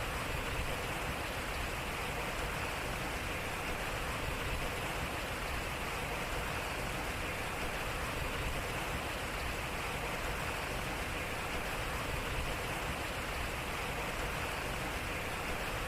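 Water flowing and splashing off a turning water wheel: a steady, even rush.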